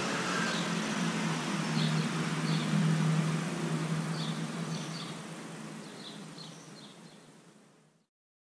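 Outdoor garden ambience: small birds chirping in short, scattered calls over a steady low hum and hiss, fading out near the end.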